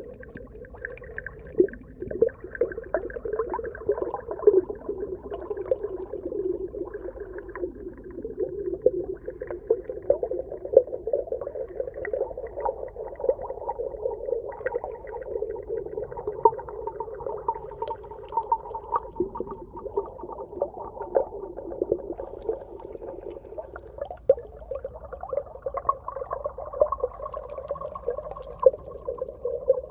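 Underwater ambience: a steady muffled drone full of dense crackling and popping, like a reef heard from below the surface, with a higher hum joining in for stretches.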